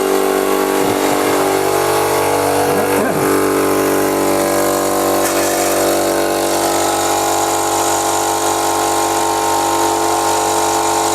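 Stabilo 200/8/24 oil-lubricated piston air compressor running steadily, its motor and pump filling the 24-litre tank.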